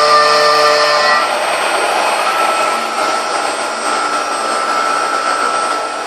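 CNC router spindle cutting stone: loud, even grinding noise with a steady high whine.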